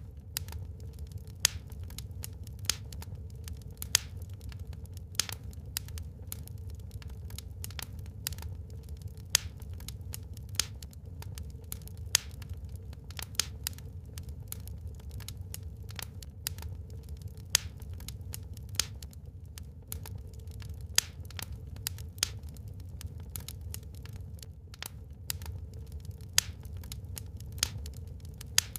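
Wood fire burning in a fireplace, crackling with frequent irregular pops, a few much sharper than the rest, over a steady low rumble.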